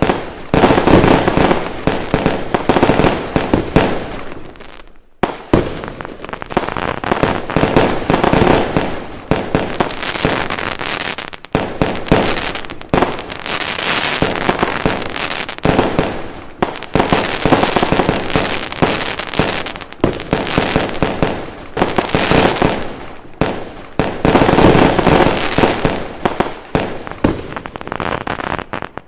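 Fireworks going off in a dense, continuous barrage of bangs and crackling firecrackers, with a short lull about five seconds in.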